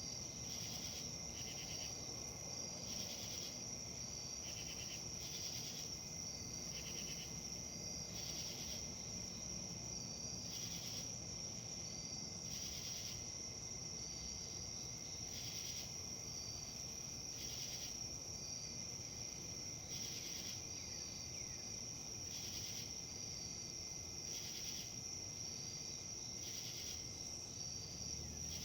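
Insect chorus: a steady high-pitched trill with a second insect's rhythmic calls about once a second, over a low, steady rustle of wind.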